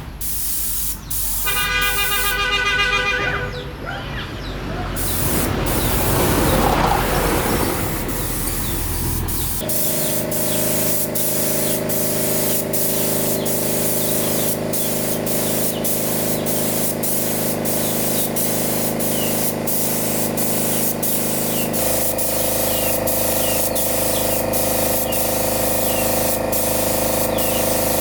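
Compressed air hissing out in a spray. From about a third of the way in, a steady machine hum joins it, and the hum shifts pitch about three quarters of the way through.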